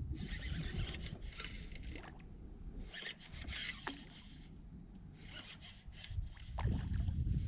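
Scraping and rubbing on a kayak, coming in several short spells over a low rumble of wind on the microphone.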